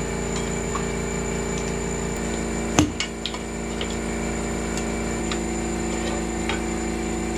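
A machine running steadily with a constant hum of several fixed pitches, and one sharp click about three seconds in.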